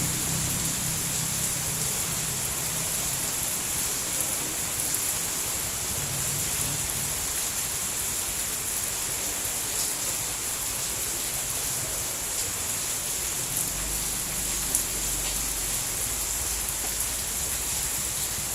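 Steady rain falling, an even hiss with a few faint drips and ticks, and a low rumble underneath at times.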